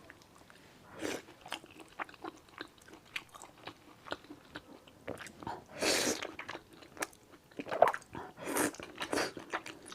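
Close-miked eating of thick sweet potato noodles (fenhaozi) in sesame paste: chewing and biting with many short wet clicks, and a few louder, longer mouth noises around the middle and near the end.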